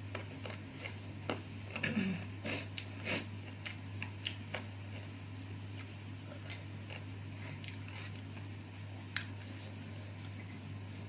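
A person eating close to the microphone: biting and chewing, with scattered small clicks and crunches that are busiest about two to three seconds in, over a steady low hum.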